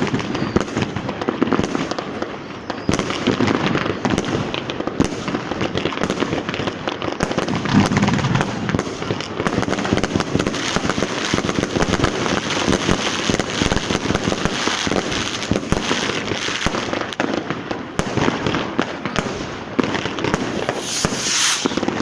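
Continuous New Year's Eve street fireworks: a dense, unbroken barrage of firecrackers crackling and banging all around, with no pause.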